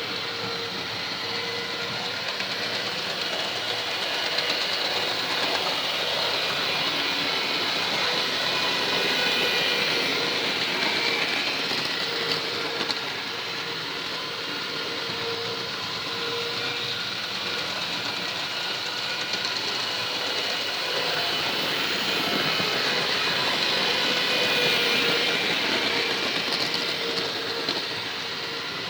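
OO gauge model locomotive running on track, pulling a rake of wagons: a steady electric motor whine over wheel rumble on the rails. It swells and fades twice as the train circles past.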